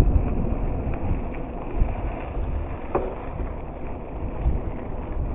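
Wind buffeting the microphone of a camera riding along on a moving bicycle: a steady, uneven rumbling noise with small gusts, and a brief faint squeak about three seconds in.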